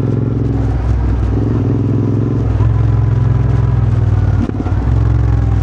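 Royal Enfield GT 650's parallel-twin engine running through an aftermarket Powerrage exhaust while riding, with a steady, throbbing exhaust note. The note breaks briefly about four and a half seconds in, then picks up again.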